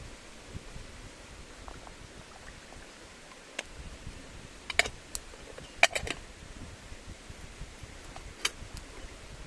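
A handful of sharp clicks and knocks, as of camp cookware and gear being handled, over a steady faint hiss. The loudest knocks come about five and six seconds in, and another near the end.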